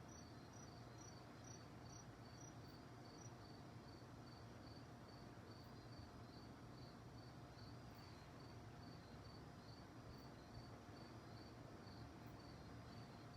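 Faint crickets chirping at night in a steady, even rhythm of about two chirps a second. A second, higher-pitched cricket chirps along with it and stops about three seconds in.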